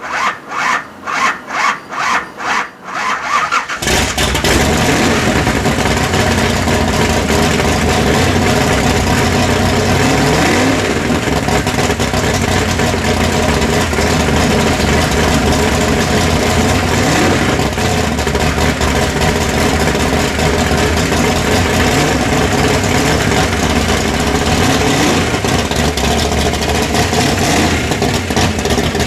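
Engine cranked by its starter motor, turning over in about three pulses a second, then catching nearly four seconds in and running steadily, with a couple of brief revs.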